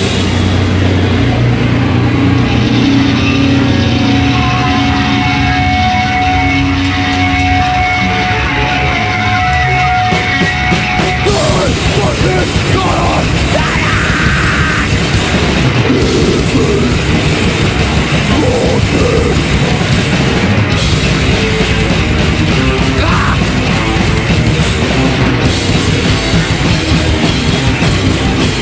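Live heavy metal band playing loud with two guitars, bass and drums. A long held note enters about four seconds in and lasts some seven seconds.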